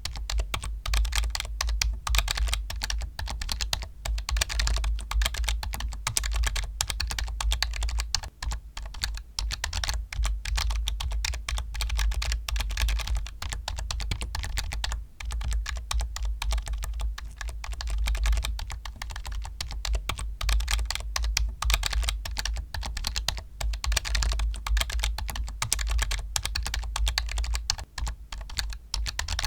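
Continuous fast typing on a computer keyboard: a dense stream of key clicks, with a deep low rumble underneath.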